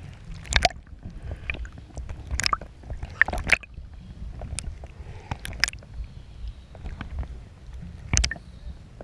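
Yamaha WaveRunner XL 1200 jet ski running with a steady low drone, while water repeatedly splashes and slaps in short sharp hits.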